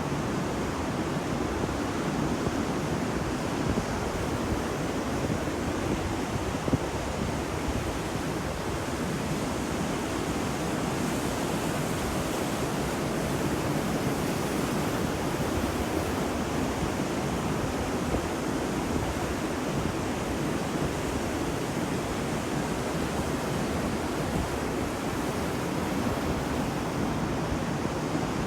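Ocean surf breaking on a beach: a steady, dense wash of noise with little rise and fall, the waves running into one another.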